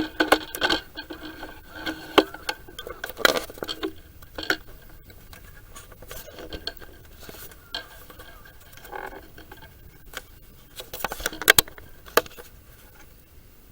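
Irregular light knocks, clinks and scrapes of hard objects being handled, loudest in a quick cluster of knocks about three-quarters of the way through.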